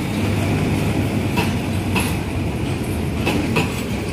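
Passenger carriages of a departing train rolling past at low speed: a steady low rumble with a few sharp clacks as the wheels cross rail joints.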